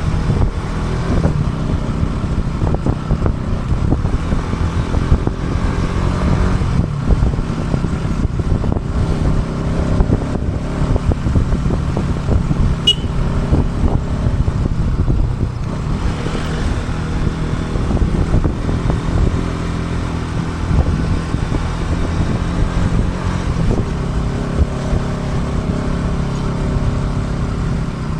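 Motorcycle engine running steadily while riding, with a dense low rumble of wind and road noise, heard through an action camera's built-in microphone with no external mic.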